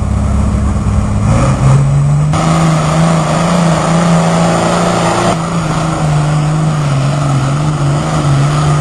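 Loud pulling-truck engine running hard and steady, its pitch dropping a step about a second in and then holding with small wobbles.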